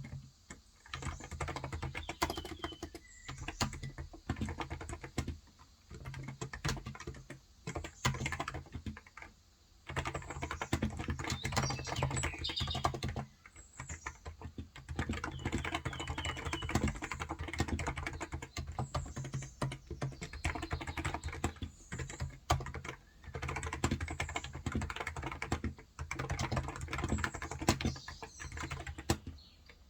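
Typing on a Cox Endeavor electrostatic-capacitive (Topre-style) tenkeyless keyboard with light 35 g switches: fast runs of soft key clacks in bursts, with short pauses between them.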